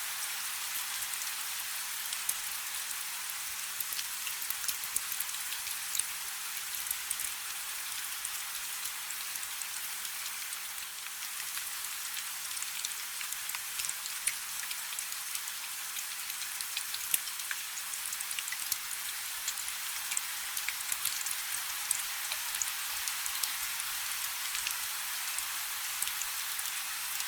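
Steady light rainfall: an even hiss with many small drops ticking sharply on a hard surface.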